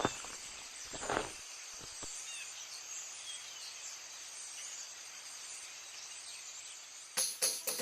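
Nature ambience of crickets chirring steadily, with a few faint short bird chirps and a couple of soft thuds in the first second or so. About seven seconds in, evenly spaced percussion hits start the song's intro.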